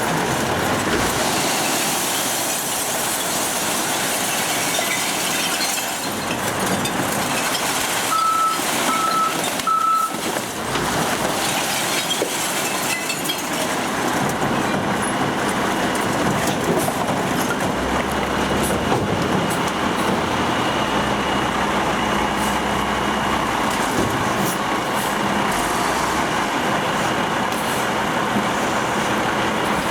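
Recycling truck running steadily, with three short, evenly spaced reversing beeps about eight seconds in.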